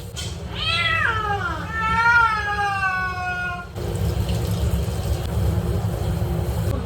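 A cat gives one long, drawn-out meow that falls in pitch and then holds steady for a couple of seconds. After it stops, only a low, steady background rumble is left.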